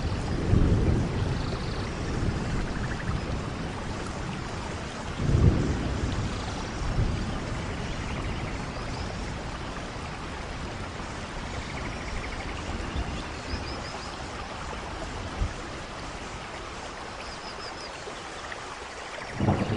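Steady rainforest rain hissing, with low rolling thunder rumbles: one at the start, a stronger one about five seconds in, and a loud rumble breaking in near the end.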